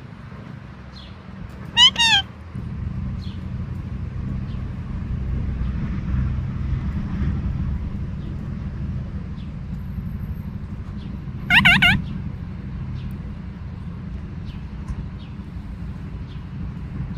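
Alexandrine parakeet calling: a pair of loud squawks about two seconds in and a quick run of calls about ten seconds later, each note dropping in pitch. A steady low rumble runs underneath.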